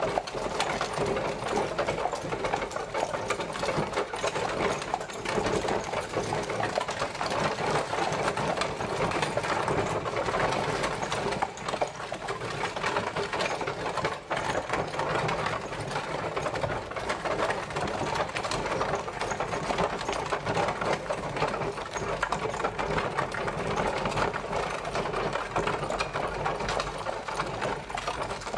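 Horse-drawn carriage travelling: a steady, dense rattling clatter of its wheels and body over the road.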